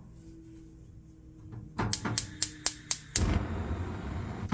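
Spark igniter on a Wolf gas range burner clicking about four times a second, then the gas catching with a whoosh and the burner flame running steadily: the burner now lights after its ignition port was cleaned with a pin.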